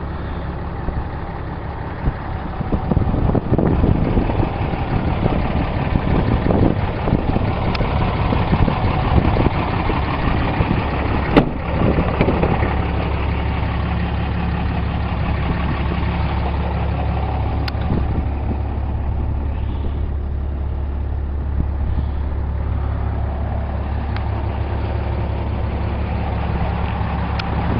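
2010 Ram 2500's 6.7-litre Cummins straight-six turbo diesel running. Its sound is louder and uneven from about three to twelve seconds in, then settles to a steady idle, with a couple of sharp clicks along the way.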